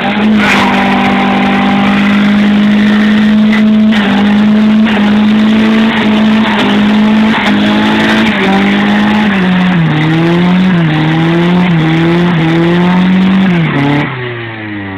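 Car engine held at high revs, very loud, its pitch steady at first, then rising and falling repeatedly before the revs drop away near the end.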